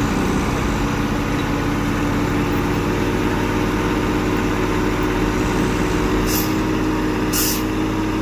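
Tow truck engines running steadily, with two short bursts of hissing air about six and seven seconds in.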